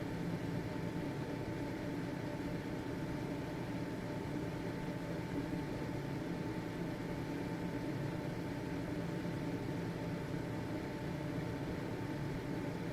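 Household ventilation fan running steadily: an even whoosh of air with a constant motor hum and a faint steady whine.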